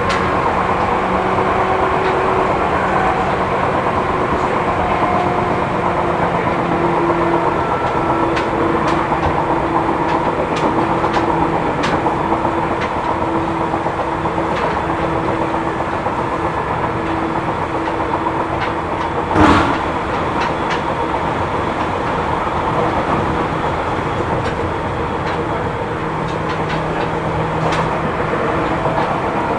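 Cabin running sound of a Seibu New 2000 series electric train at speed: steady wheel-and-rail rumble with wavering motor tones and scattered clicks. One sharp bang comes about two-thirds of the way through. The car runs on a wheel with a flat spot.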